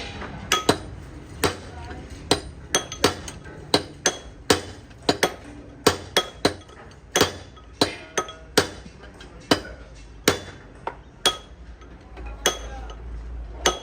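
A hammer striking steel gearbox parts in a run of irregular blows, roughly one to two a second, each with a short metallic ring.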